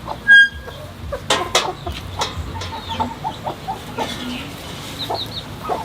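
Chickens clucking in a string of short, repeated notes, with a brief high squawk just after the start, three quick high chirps near the end, and a few sharp knocks.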